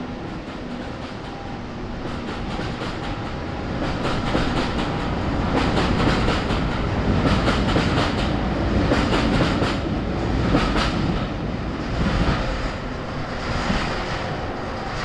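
Passenger train coaches passing close by, wheels clicking in repeated groups over rail joints on top of a steady rumble.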